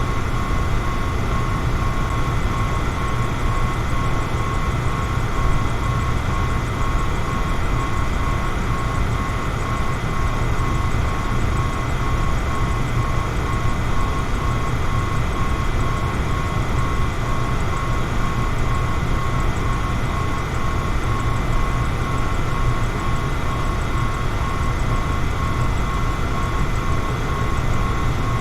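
Electric fan running steadily: a constant whooshing rumble, heaviest in the low end, with a thin steady motor whine above it.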